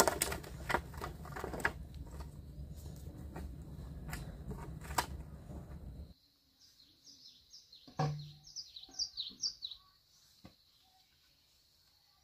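Clicks and knocks over a low steady rumble, which cuts off suddenly about halfway through. After the cut a small bird gives a run of short, quick falling chirps, with one thump among them.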